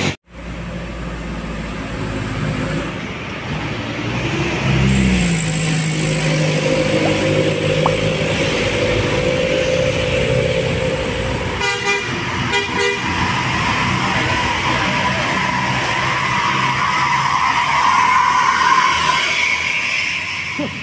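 Heavy road vehicles (buses and trucks) running up a steep hill with engines under load, an engine note rising about five seconds in, and a horn sounding in short rapid pulses about halfway through.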